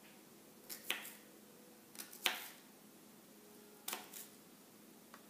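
A few sharp taps and clicks of a kitchen utensil against a dish as chopped peppers are added, coming in quick pairs about every one and a half seconds, the loudest about two seconds in.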